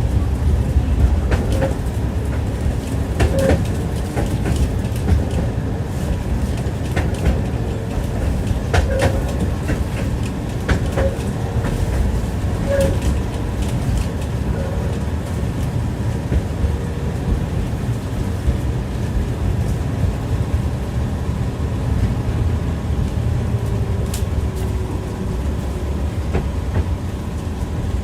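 Tram running along the track, heard from inside the car: a steady low rumble with the clatter of the wheels over the rails, sharp knocks coming thickest in the first half.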